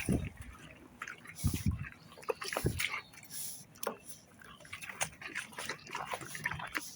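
Horses chewing and crunching feed at close range: irregular short crackling bites throughout, with a few low thumps near the start, about a second and a half in, and just before three seconds.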